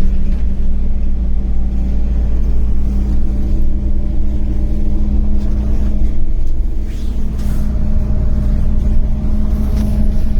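KAvZ 4270 bus engine running under way, heard from inside the bus: a steady, loud low rumble with an even engine hum.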